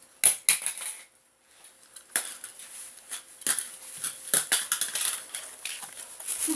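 Irregular clicks, taps and light clattering of small objects being handled, with a brief lull about a second in.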